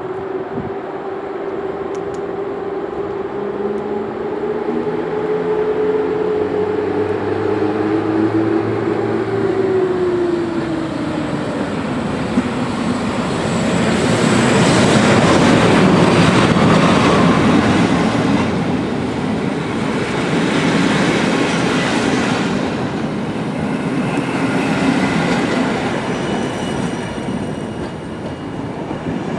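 EP07 electric locomotive passing close by with a steady hum that falls in pitch as it goes past. Then a long rake of passenger coaches rolls by, the wheel-on-rail noise loudest about halfway through.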